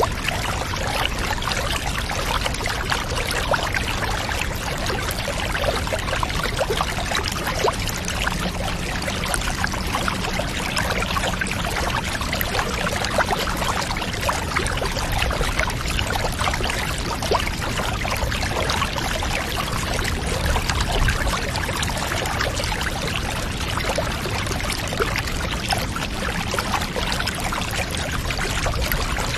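Steady pouring, trickling water with many small splashes and drips.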